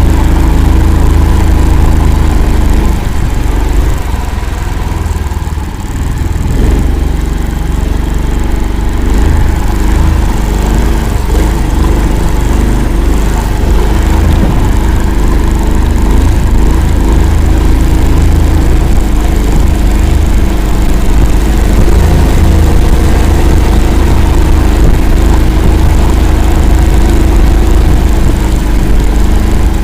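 Engine of the "Akula" all-terrain vehicle running steadily under load as it drives through swamp, with a heavy low rumble. It eases off a little a few seconds in, then picks up again.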